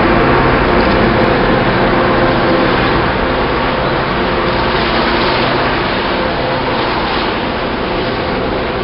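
Diesel-hauled passenger train pulling past: a steady locomotive engine drone mixed with the noise of wheels on the rails, slowly growing fainter as the last cars go by.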